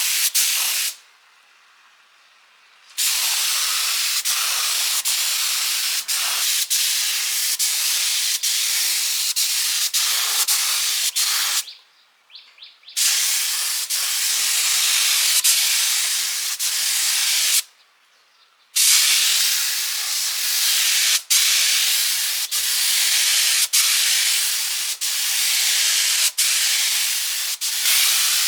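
Steady, high-pitched spray hiss that cuts off abruptly three times, for a second or two each, then starts again.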